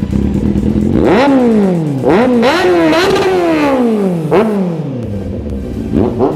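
Superbike fitted with an SC-Project aftermarket exhaust, revved in a string of sharp throttle blips, the revs falling back slowly after each. It settles to idle and is blipped once more near the end. Loud enough to make a bystander cover his ears.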